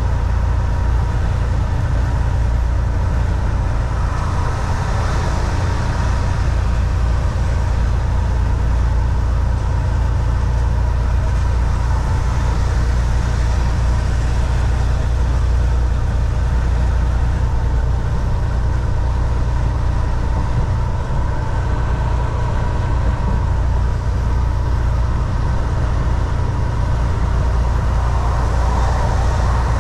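Inside the cab of a Volvo VNL 760 semi truck on the road: a steady, deep engine drone with road noise, unchanging throughout.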